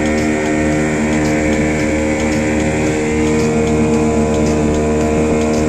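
Motorboat engine running at a steady, unchanging pitch.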